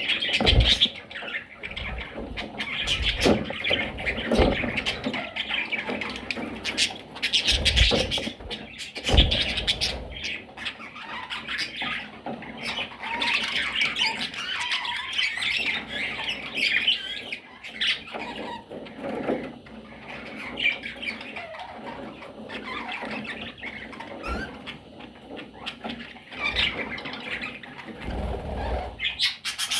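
Budgerigars chattering and squawking continuously, with scattered thumps and clicks from the birds moving about.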